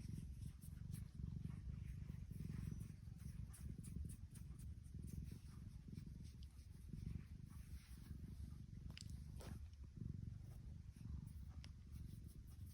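A tuxedo cat purring: a faint, low rumble that swells and dips in cycles.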